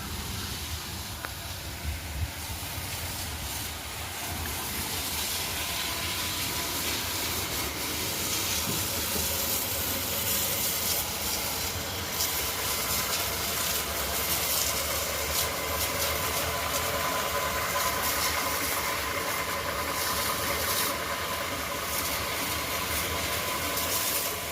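Pneumatic washer spraying a tractor: a steady hiss of the air-and-water jet that grows louder over the first several seconds, with a faint steady machine whine underneath.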